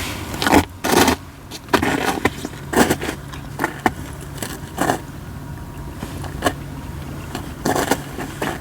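Katsura wood fire crackling, with loud sharp popping bursts coming at irregular intervals, several in quick clusters, over a steady low rumble.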